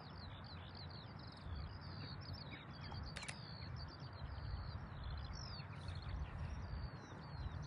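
Small birds singing: a steady stream of quick, high chirps that slide downward in pitch, over a low, even rumble.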